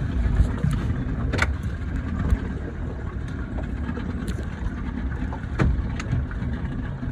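A motorboat running underway, a steady low rumble of motor, water and wind, with a few short knocks about a second in and again near the end.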